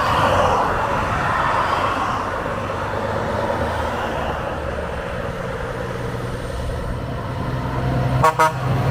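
Scania R540 truck's V8 diesel engine running steadily, with road and traffic noise. A short quick rattle of sharp clicks comes near the end.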